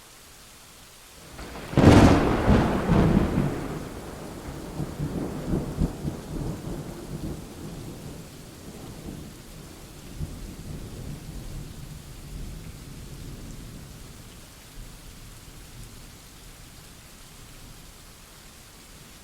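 Steady rain with a thunderclap: a sharp crack about two seconds in, then a long rolling rumble that fades gradually back into the rain.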